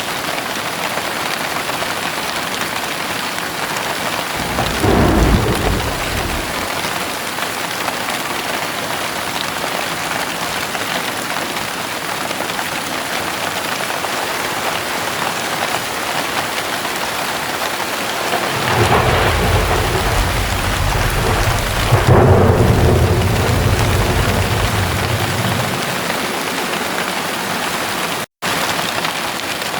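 Steady heavy rain with thunder: a short clap of thunder about five seconds in, then a longer, deeper rumble of thunder in the second half that swells twice before fading. The sound cuts out for an instant near the end.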